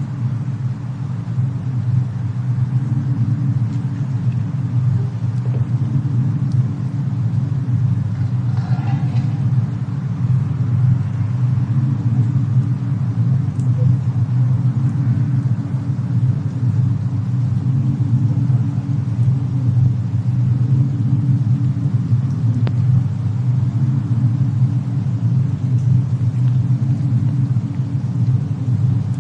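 Fireplace-and-snowstorm ambience: a steady, loud low rumble, with a few faint crackles from the fire.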